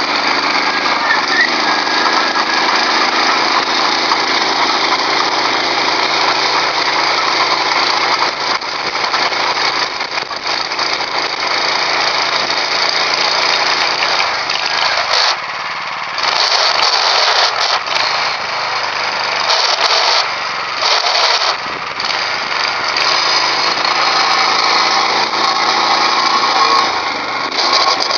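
Engine of a homemade walk-behind tractor running steadily during break-in, with a few brief dips and changes in its sound past the middle.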